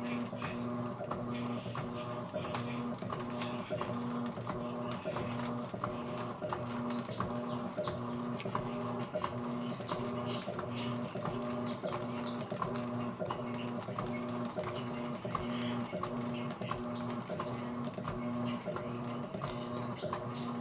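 Electrolux Essential Care washing machine running with a steady motor hum that pulses evenly, about one and a half times a second, with many short high chirps over it.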